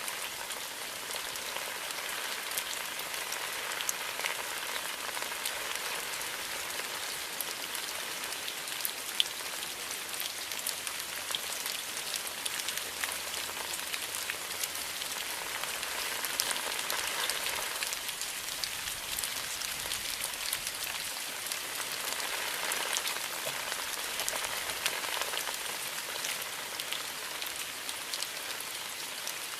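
Steady rain falling in a bamboo grove: a dense, even hiss with countless small drop taps scattered through it.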